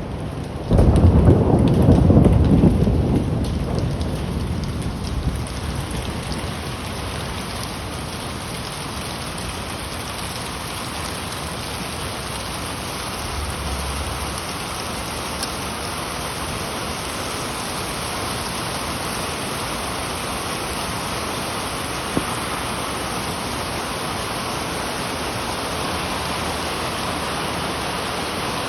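A sharp crack of thunder just under a second in, rumbling on loudly for a few seconds and fading, over steady heavy rain falling on city surfaces. A single sharp tick stands out in the rain later on.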